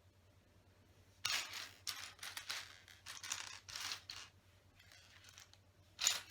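Hands sifting through loose plastic LEGO pieces, several short bursts of rustling and clattering, with a sharp clack near the end.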